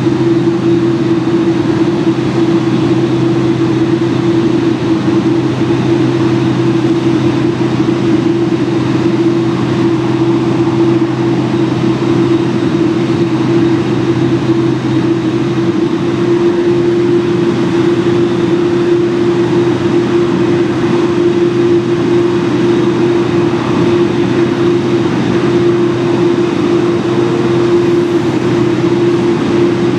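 Steady, loud machinery drone with a strong, unbroken hum, at an airport de-icing station where a Boeing 747-8 is being de-iced. A lower hum drops out about halfway through.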